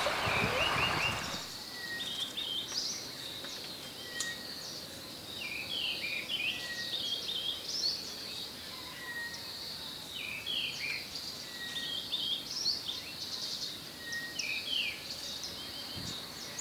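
Several wild birds calling and chirping over a steady high insect buzz, with one short whistle repeating about every two seconds. A rushing noise covers the first second or so.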